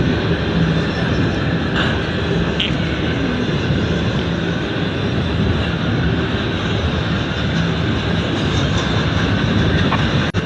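Norfolk Southern freight train's cars rolling past, a steady loud rumble of wheels on rail, with a brief dropout near the end.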